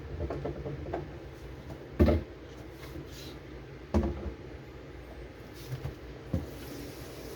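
Two sharp knocks about two seconds apart, with a few lighter clicks in between: handling sounds from work in a small cupboard.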